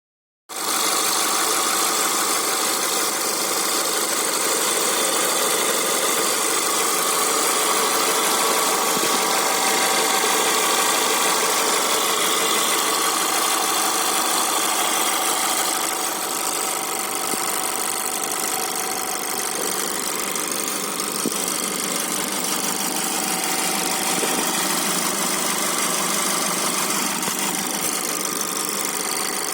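Skoda Yeti's 1.2 TSI turbocharged petrol engine running steadily, with the knock that the owner is recording it to show.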